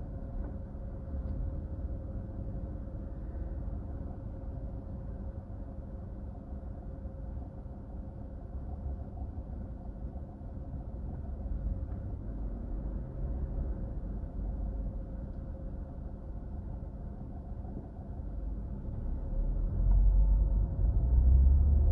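Car driving, heard from inside the cabin: a steady low rumble of engine and road noise with a faint steady hum. It grows louder near the end.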